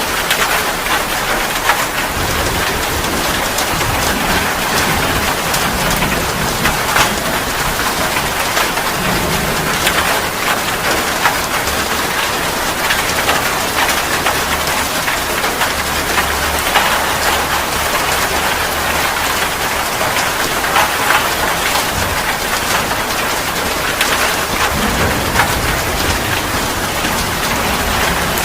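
Steady, dense rain pattering on a surface, with many individual drop splashes, and low thunder rumbling a few times.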